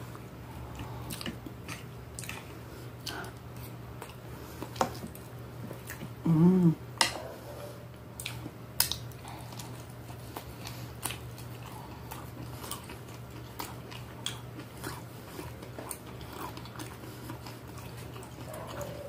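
Close-miked chewing and biting of a mouthful of beef and rice, with scattered wet mouth clicks and smacks. A short hummed vocal sound comes about six seconds in. A steady low hum runs underneath.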